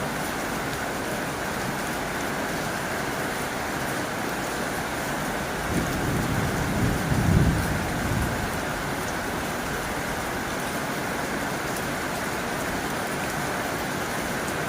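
Heavy rain drumming on a tin roof, a steady hiss of drops. About six seconds in a low rumble swells for about two seconds and fades.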